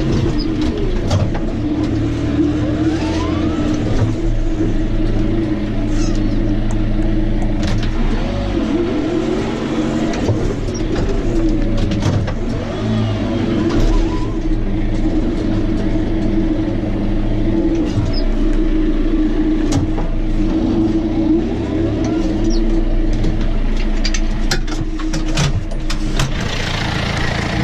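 Tractor engine running steadily, its pitch wandering a little as the revs change, with a few sharp knocks or rattles near the end.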